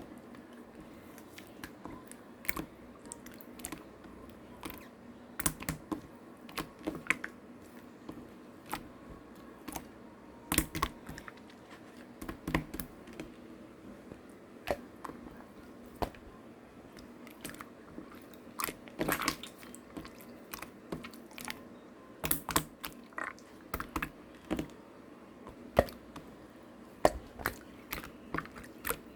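Slime being squeezed, poked and stretched by hand, giving irregular sticky clicks and small pops, a few to several a second in clusters.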